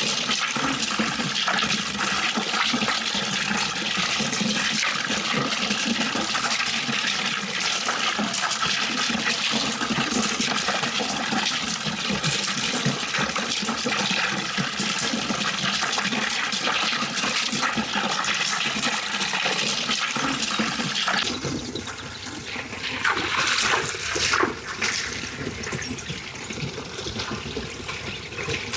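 Water running in a steady rush. About 21 seconds in it turns quieter and more broken, with separate splashes.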